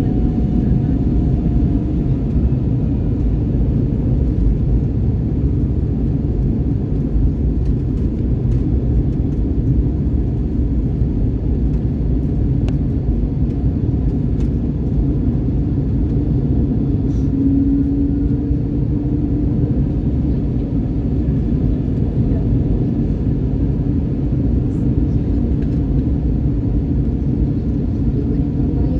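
Steady low rumble of an Airbus A321neo's engines and airflow, heard as cabin noise during the descent into a windy landing. A faint tone slides in the background, and a short, brighter hum comes in about seventeen seconds in.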